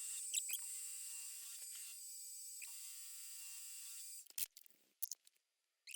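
A steady electrical whine of several pitches at once, with a few light clicks, from a running machine motor. It cuts off abruptly about four seconds in, leaving only a few clicks.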